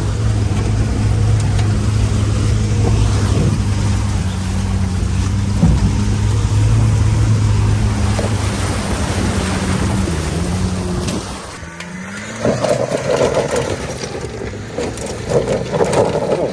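Mini truck's small engine running hard under load at a steady pitch in four-wheel drive. About ten seconds in the pitch sags and the engine drops back, and a rough crunching noise takes over for the last few seconds.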